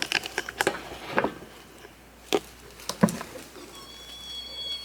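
A series of light clicks and knocks, about eight spread unevenly, as objects are handled and set down. Faint thin high tones come in near the end.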